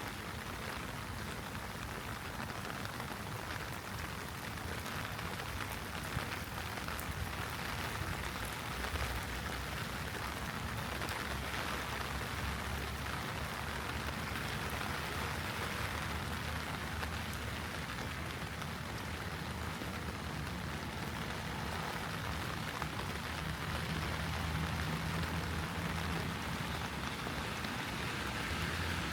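Heavy rain falling steadily, an even hiss of drops. A low hum comes in under the rain and grows louder in the last few seconds.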